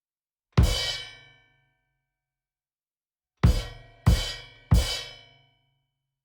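Cymbal crash struck together with a kick drum: one hit about half a second in, then three more in quick succession, about two-thirds of a second apart, near the end. Each hit rings out and dies away within about a second.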